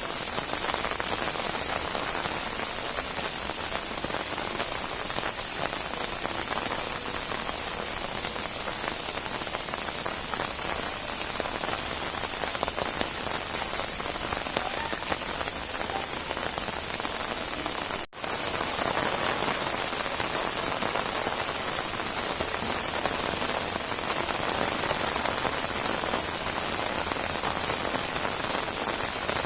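Steady rain falling on a surface, a dense even hiss of drops, with a momentary drop-out about two-thirds of the way through.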